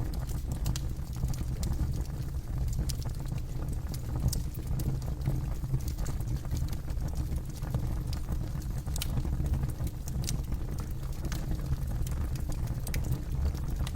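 Campfire burning, with a steady low rumble of flames and scattered sharp crackles and pops from the burning wood.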